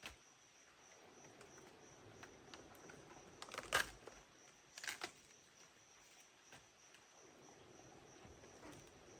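Faint forest ambience with a steady high-pitched insect drone. Two sharp knocks, about four and five seconds in, are the loudest sounds.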